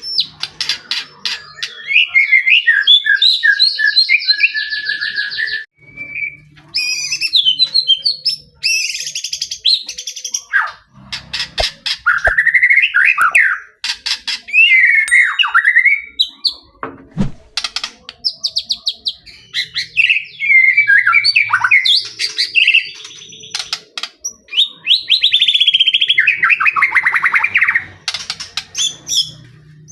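White-rumped shama (murai batu) in loud, continuous full song: varied phrases of gliding whistles, fast buzzy trills and sharp clicks, with short pauses between them.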